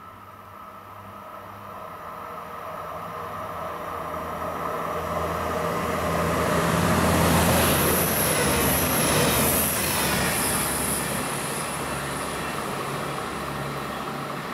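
A DB class 620 diesel multiple unit approaching, passing close by and running away: its diesel engine hum builds up, peaks with a rush of wheel and rail noise and a thin high whine as the cars go past, then fades off.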